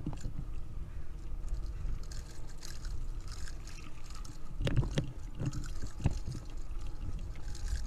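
Wind rumble on the microphone and road noise from a fixed-gear bike being ridden, with a few sharp knocks about five seconds in and another about a second later as the bike jolts over bumps in the road.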